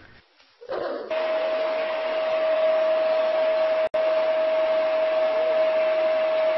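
After a brief silence, a steady hiss starts, and about a second in a single unwavering mid-pitched tone joins it and holds steady. Both cut out for an instant near the middle.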